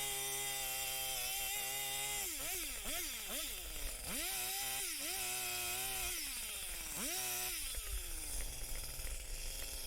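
Two-stroke chainsaw held at high revs, then let off and blipped back up several times, settling to a low idle near the end.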